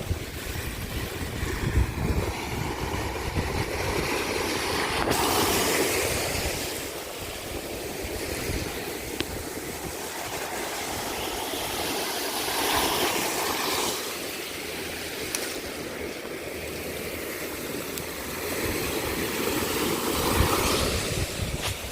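Waves washing onto a beach, swelling and breaking three times about seven seconds apart, with wind rumbling on the microphone.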